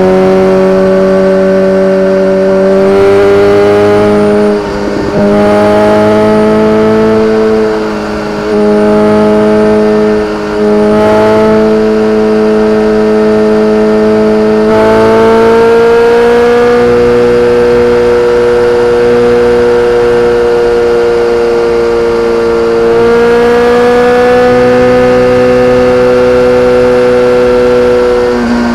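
BMW K1300R's inline-four engine through an Akrapovic exhaust, running under steady throttle with its pitch slowly climbing. The sound drops off briefly three times in the first half.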